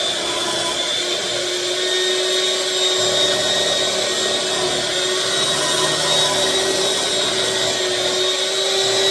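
Countertop blender running steadily, its motor whine holding an even pitch as it blends a thick filling of cream cheese, brown sugar and canned pumpkin.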